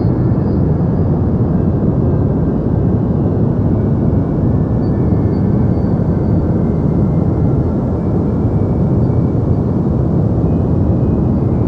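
Steady deep white noise: a dense, even rush weighted toward the low end, with little energy in the high frequencies.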